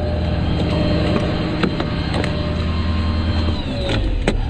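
Motor vehicle engine running steadily with a low drone, punctuated by a few sharp clicks. Near the end the drone changes and a tone slowly falls in pitch.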